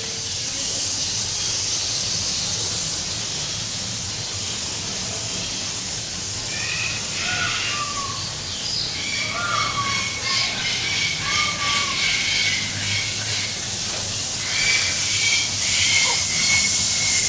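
Birds calling in short gliding chirps and held whistled notes, more of them from about a third of the way in, over a steady high hiss.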